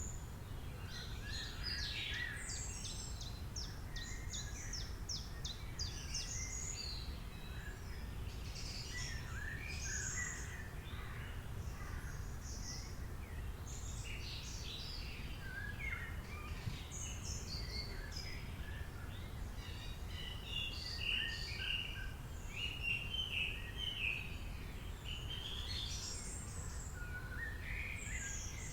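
Several birds singing and chirping at once, with rapid trills and short repeated calls, over a steady low background rumble.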